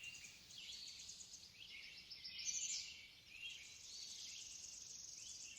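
Faint ambience of small birds chirping and trilling, with one louder call about two and a half seconds in and a steady high trill through the second half.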